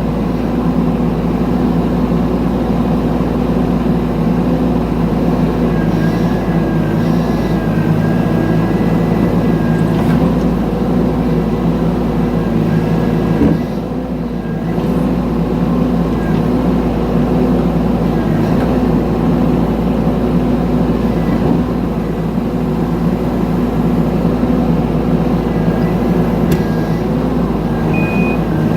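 Mini excavator's engine running steadily as it works, with a faint wavering whine for a few seconds near the start and a single knock about thirteen seconds in, followed by a brief dip in the engine. Its travel alarm starts beeping right at the end.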